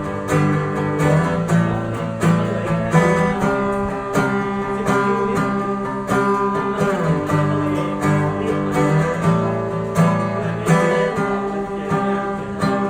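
Acoustic guitar strummed steadily in a regular rhythm: an instrumental passage between the chorus and the next verse of a song.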